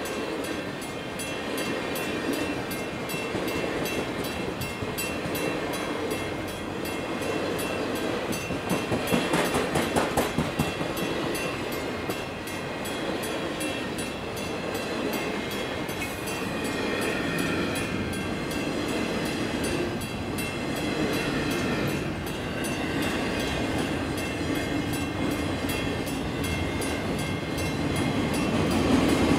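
Circus train cars rolling past at a grade crossing, steel wheels clacking over the rail joints, with a run of louder, rapid, evenly spaced clacks about a third of the way in. The rumble grows louder near the end as loaded flatcars pass.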